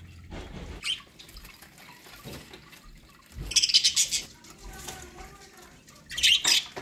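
Pet budgerigars chirping and chattering, with loud, harsh bursts of calling just under a second in, midway through and near the end.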